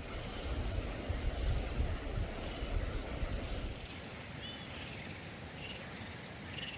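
Low, gusty rumble of wind buffeting the microphone for the first few seconds, then easing off, with a few faint high chirps later on.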